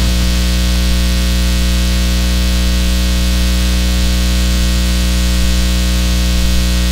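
Loud, steady electrical hum with a buzz of evenly stacked tones and a hiss of static over it, not changing at all.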